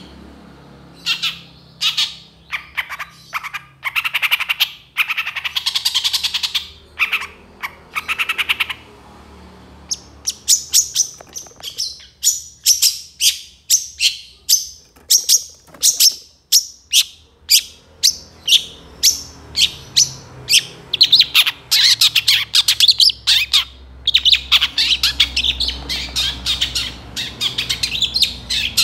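Long-tailed shrike (cendet) singing loudly: quick runs of sharp, repeated high notes mixed with harsh scratchy bursts, with brief pauses about a second in and again around nine seconds in.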